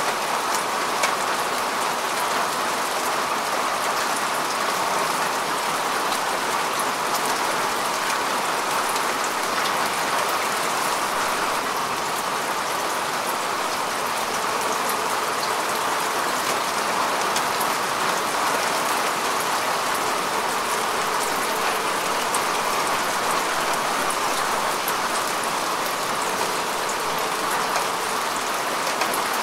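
Steady rain falling on earth and grass, a constant hiss with many small drop ticks and no let-up.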